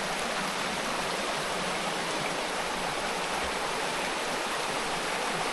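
Mountain creek running over rocks: a steady, even rush of flowing water.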